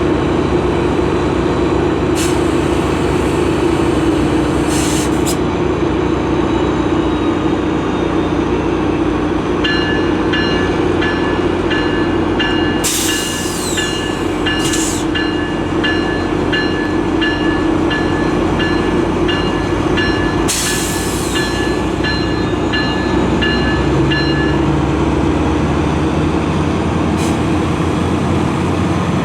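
GO Transit commuter train running loud and steady through the station with a heavy diesel rumble. For about fifteen seconds in the middle a bell dings about three times every two seconds, and a few short hisses or squeals cut in briefly.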